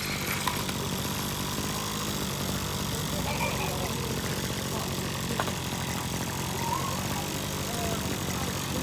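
A small engine idling steadily, with faint voices in the background.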